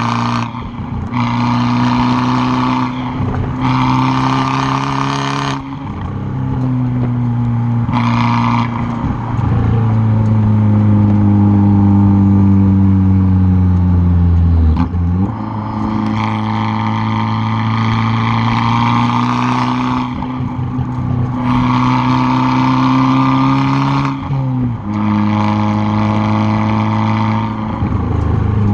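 Exhaust of a tuned, turbocharged 2013 Fiat 500 Abarth, picked up right at the rear bumper, as the car is driven hard. The note changes pitch over and over, with several short breaks and drops where the throttle lifts or a gear changes. About ten seconds in there is a long pull during which the tone slowly sinks.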